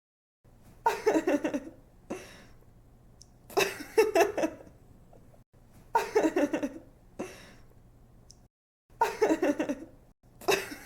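A young woman giggling. Short bursts of quick, rapid-fire laughter repeat about every two and a half seconds, four times, with a fifth starting near the end: one laugh clip looped.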